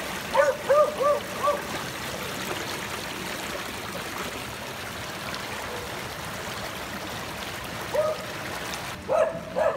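Rainwater rushing steadily along a filled roadside storm drain, with a dog barking over it: four quick barks in the first second and a half, one about eight seconds in, and two more near the end.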